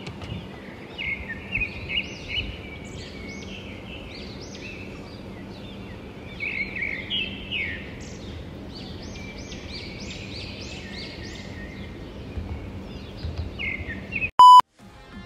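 A flock of birds calling in many short, overlapping chirps and trills over a steady low hum. Near the end a brief, loud electronic beep cuts in, followed by a moment of silence.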